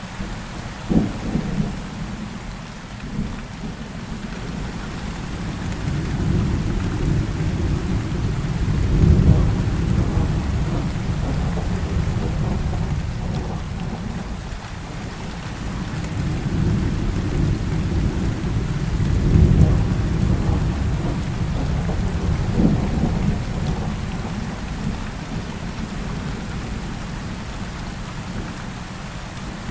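Heavy rain falling steadily, with thunder: a sharp crack about a second in, two long rolling rumbles swelling through the middle, and another crack near the end.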